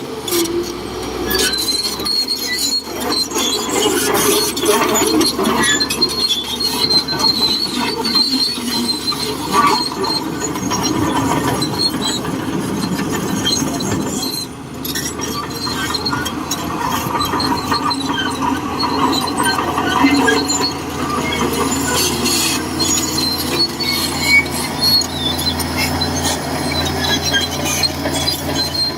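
Shantui DH17C2 crawler bulldozer working, its diesel engine running under a continuous squealing and clanking of the steel tracks.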